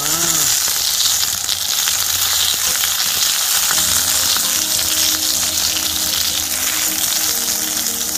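Garlic, asparagus, red onion and cherry tomatoes sizzling steadily in hot oil in a thick, preheated frying pan.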